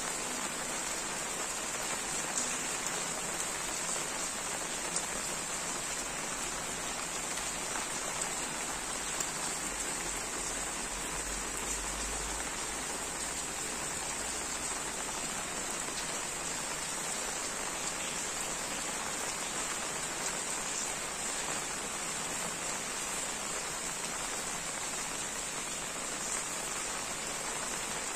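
Heavy, steady downpour of rain: an even hiss of rain falling on surfaces, with the odd louder drop.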